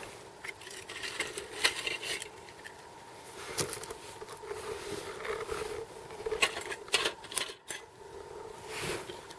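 Irregular clinks and knocks of metal camp cookware being handled.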